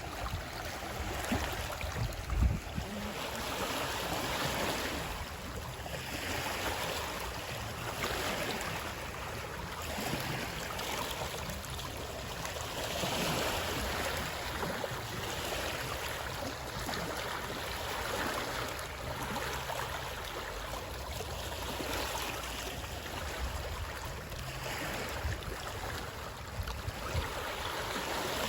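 Running water: a steady rushing wash that swells and eases every few seconds, with a few low bumps about two seconds in.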